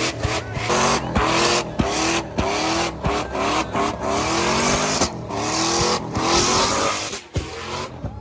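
Truck engine revving again and again, its pitch climbing in short rising sweeps about twice a second over a loud hiss, easing off near the end.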